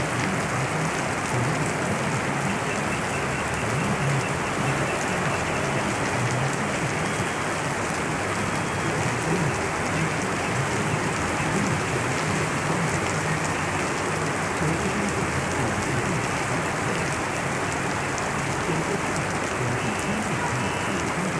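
Heavy rain falling steadily in a rainstorm, an even, unbroken hiss of rain on surfaces.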